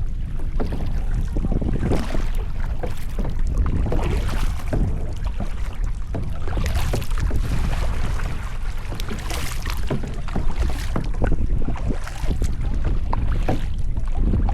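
Kayak paddle strokes splashing and dripping every second or two, with small water clicks against a sit-on-top kayak's hull, over a steady low rumble of wind on the microphone.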